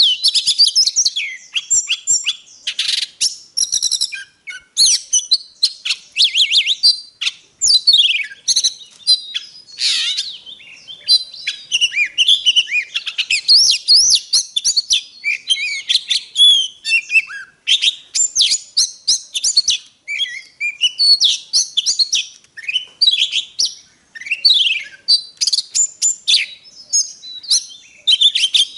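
Oriental magpie-robin singing a long, varied song of clear whistles, pitch glides and rapid chattering trills, phrase after phrase with only brief gaps.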